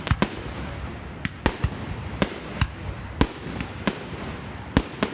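Fireworks going off: about a dozen sharp bangs in quick, irregular succession, over steady background noise.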